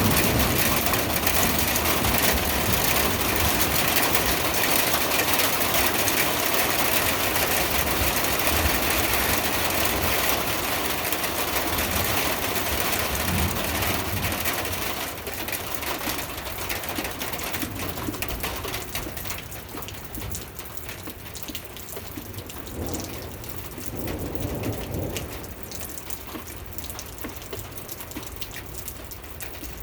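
Heavy rain falling steadily, growing quieter after about fifteen seconds.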